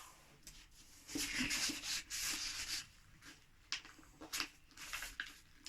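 A sheet of US Letter printer paper being folded and creased by hand: papery rustling and sliding, a longer stretch about a second in, then a few short scrapes as the fold is pressed flat.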